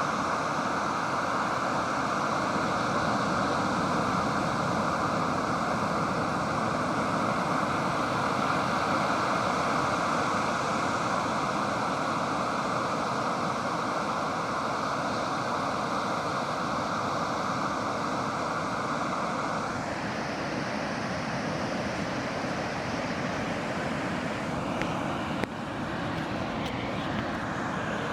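Ocean surf on the beach, a steady wash of breaking waves, its tone shifting about two-thirds of the way through, with a small tick near the end.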